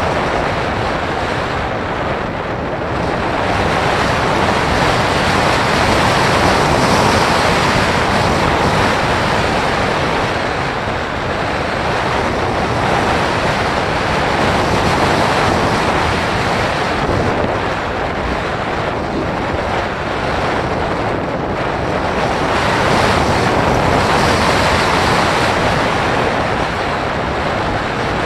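Rushing wind noise on the microphone of a small action camera riding on a Bird of Time radio-control sailplane in gliding flight. The wind swells and eases slowly every several seconds, with no motor sound.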